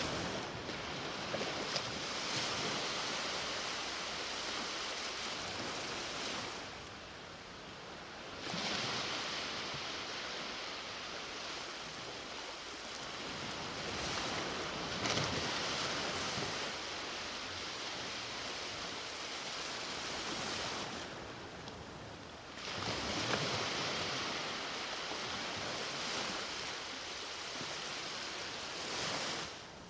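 Ocean waves breaking and washing up a beach: a continuous rushing surf that eases off twice, then swells again with a new breaker about 8 and 23 seconds in.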